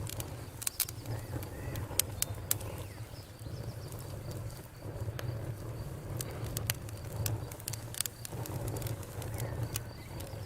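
Campfire burning: wood crackling with irregular sharp pops over a low, steady rumble from the fire. The two loudest pops come about two and two and a half seconds in.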